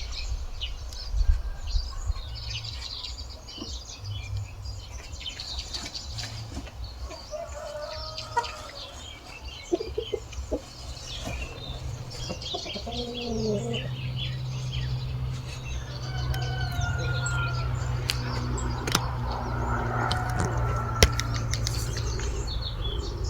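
Chickens clucking here and there, with scattered small clicks and knocks, over a steady low rumble that grows stronger about halfway through.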